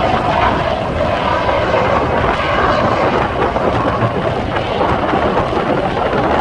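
Strong wind buffeting the microphone: a loud, uneven rumble.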